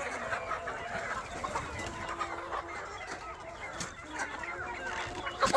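A flock of KUB native chickens clucking, many short calls overlapping. There is one sharp knock near the end.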